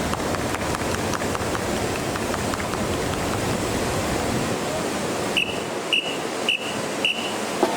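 Strong wind buffeting the microphone in a steady loud rush, with four short high beeps about half a second apart near the end.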